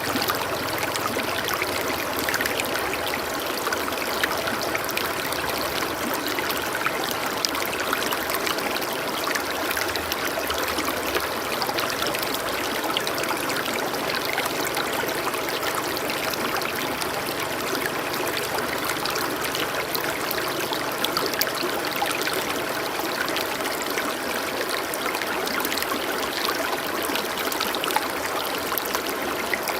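Steady running water, a stream trickling and splashing without letup.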